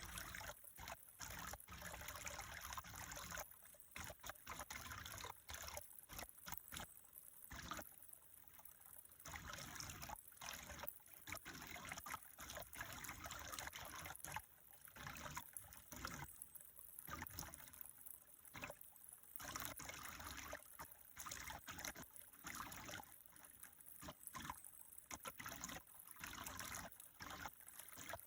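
Water trickling steadily, as from a small stream, a faint rushing sound that keeps briefly dipping.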